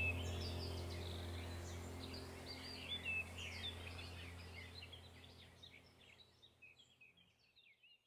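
Songbirds chirping and whistling over a low steady droning tone, the whole mix fading out gradually until it is gone at the end.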